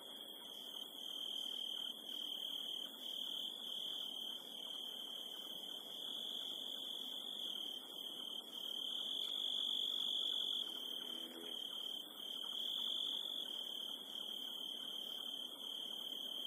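A steady high-pitched tone that slowly swells and fades, over a faint low hiss.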